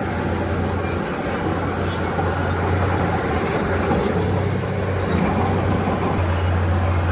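Heavy diesel earthmoving machinery running steadily under load, with a constant low engine hum.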